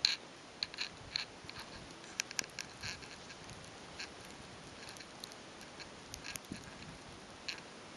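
Faint, irregular crunching and crackling of footsteps in deep snow, in scattered short clicks.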